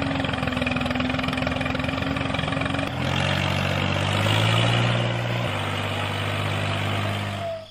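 Tractor engine idling steadily; about three seconds in the sound shifts to a deeper, louder running, then settles again a couple of seconds later.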